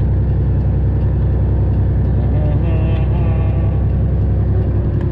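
Straight-piped Detroit diesel engine of a Freightliner Classic XL semi truck running steadily with a deep, even rumble.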